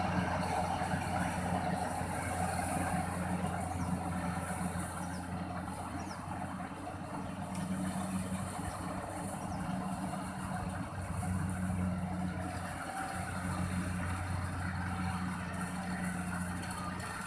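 Kubota rice combine harvester's diesel engine running steadily, with an even low hum and no change in speed.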